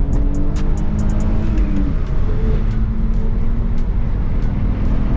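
BMW E46's engine heard from inside the cabin while driving, its pitch climbing slightly and then dropping about two seconds in before holding steady. Heavy road rumble and scattered sharp knocks and rattles come from the stiff, low suspension on a bumpy road.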